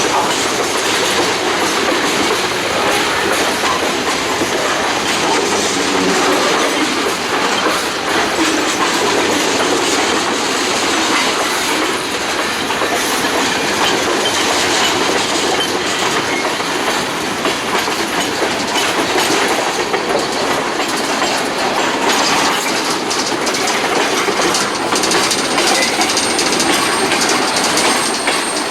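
Norfolk Southern freight train rolling by, its cars' wheels clattering over the rail joints in a loud, steady noise that does not let up.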